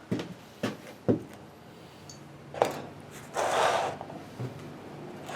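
Sharp knocks and clicks of winch parts being handled during a teardown, four separate strikes in the first three seconds, then a short scraping rustle a little past the middle.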